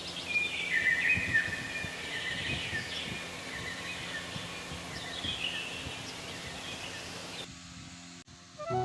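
Birds chirping: many short, repeated chirps over a steady hiss of outdoor background noise. The background cuts off sharply near the end.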